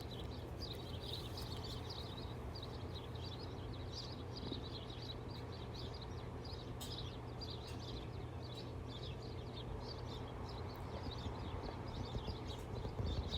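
Small birds chirping busily and continuously, many short high chirps overlapping, over a steady low hum.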